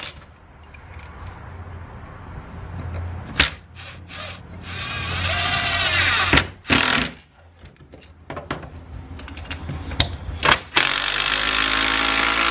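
Power drill spinning a bolt held in a socket to bore a hole through a block of wood, running in several bursts with short pauses between.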